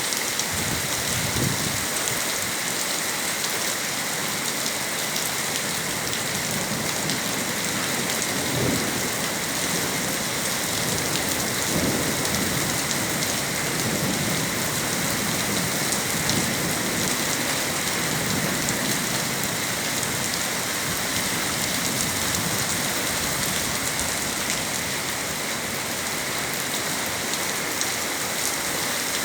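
Heavy rain falling steadily, a dense hiss full of tiny drop ticks, with low rumbles swelling now and then.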